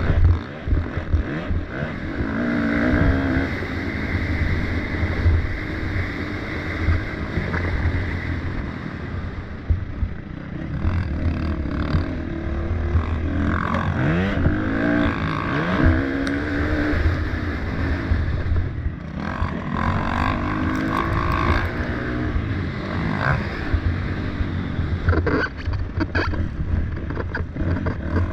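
Several motocross dirt bike engines racing, revving up and dropping back in pitch as riders accelerate and shift. Several engines overlap, with a clear rising and falling sweep in the middle.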